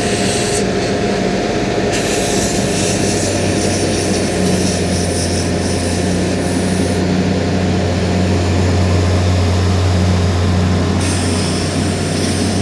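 A large engine running steadily with a deep, even hum, under a hiss that grows and fades in the highs several times.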